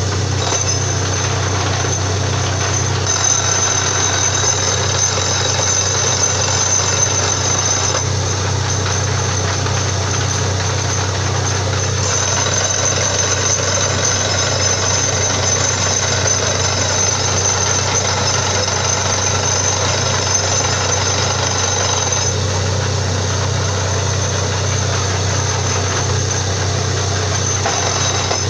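Borewell drilling rig running steadily: a loud, unbroken machine noise with a deep drone and a thin high whine over it.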